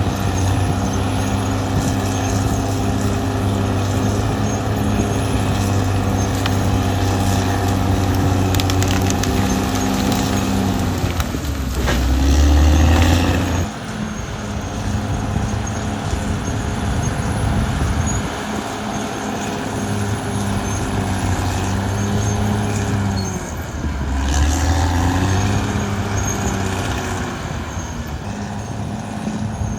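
Caterpillar D6R XL bulldozer's diesel engine running steadily under work. Twice its note sags and swells as it takes load, about twelve and again about twenty-four seconds in, the first time the loudest.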